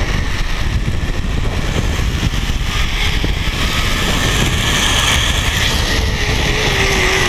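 Zipline trolley pulleys running along the steel cable, with wind rushing past the microphone during the ride. Near the end a whine falls slowly in pitch as the trolley slows toward the landing platform.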